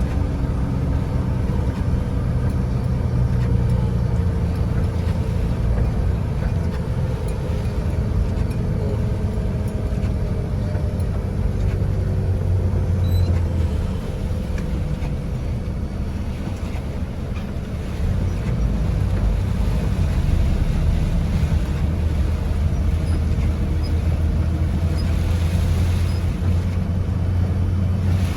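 Strong storm wind buffeting the microphone in heavy rain: a steady low rumble that eases briefly about halfway through, then picks up again.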